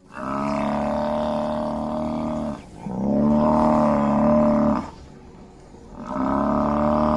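An animal's long, steady call, given three times with short pauses between.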